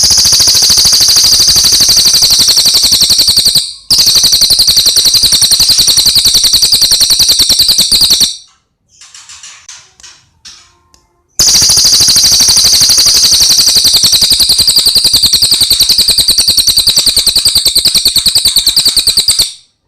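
A cililin songbird singing a loud, high-pitched rapid trill, a fast machine-gun-like run of notes held for several seconds at a time. There are three long runs, with softer short chirps in the gap after the second.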